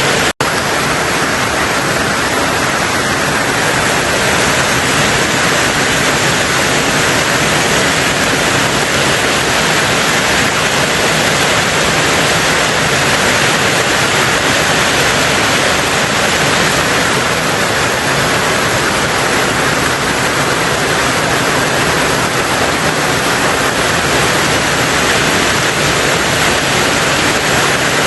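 Heavy rain on a tin roof: a dense, steady hiss of drops, with a momentary break in the sound just after the start.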